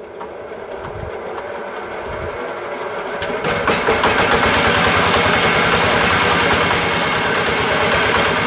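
A small motor running with a fast, buzzing rattle. It swells over the first few seconds, then runs steady and loud.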